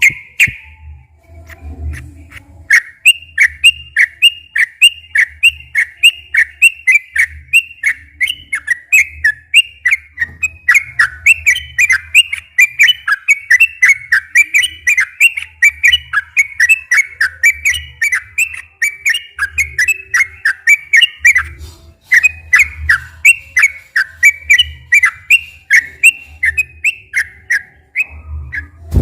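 Yellow-vented bulbul (trucukan) singing a long, fast run of short whistled notes, about three a second, with a brief pause about two-thirds of the way through.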